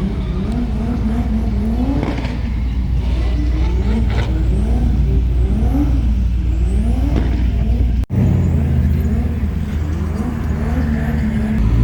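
Sports car engines being revved over and over, the pitch rising and falling about once a second. After a brief cut about eight seconds in, a steadier engine drone follows.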